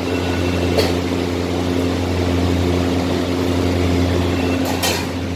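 Exhaust fans running with a steady low hum, blowing air out of the room. Two brief clicks sound over it, about a second in and near the end.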